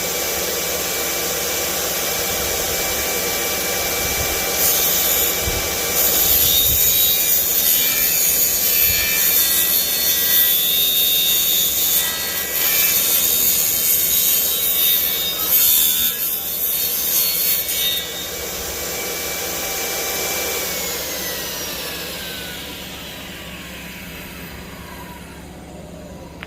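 Electric power saw cutting wood: a steady motor whine with a rough, louder cutting sound through the middle. The saw is then switched off, and its pitch falls over several seconds as the motor winds down.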